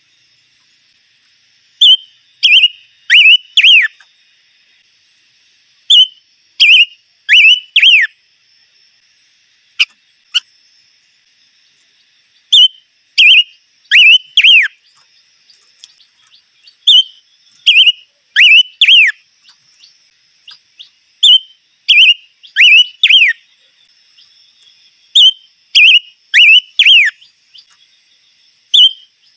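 Songbird singing loud, clear whistled phrases of two to four notes, each note sliding down in pitch, repeated every couple of seconds with a longer pause partway through. A faint steady high-pitched hiss runs underneath.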